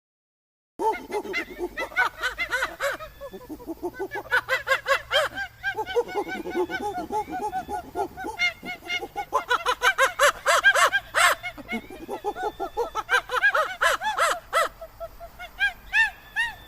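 Many short animal calls overlapping in a dense chorus, as from a flock, with brief dips about five and a half and twelve seconds in.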